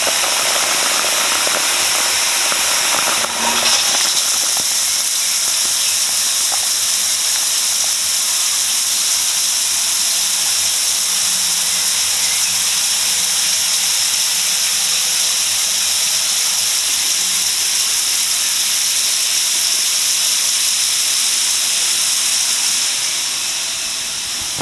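Spa experience shower ('Caribbean Storm' rain-room program) spraying water, a steady hiss of falling water that begins to fade near the end.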